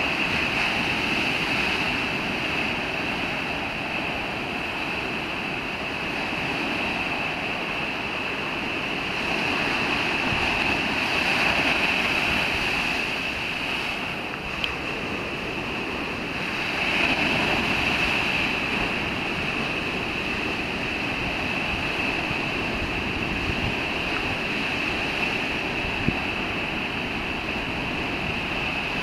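Heavy surf from a typhoon-stirred sea, waves breaking and washing on a beach in a continuous rush, with wind. It swells louder about a third of the way in and again just past halfway.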